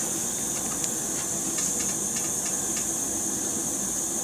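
A steady hiss with a few faint ticks scattered through it.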